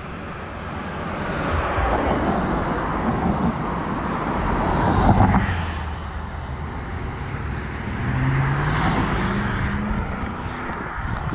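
Road vehicles passing: one swells up and passes loudest about five seconds in, then a second passes around eight to ten seconds with a rising engine note.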